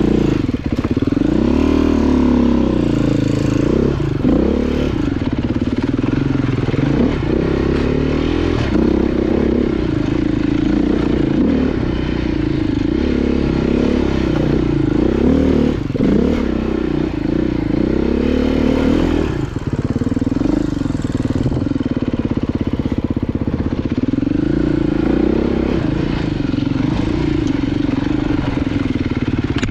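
Off-road motorcycle engine being ridden on a trail, its pitch rising and falling over and over as the throttle is opened and closed, with a short dip about two-thirds of the way through.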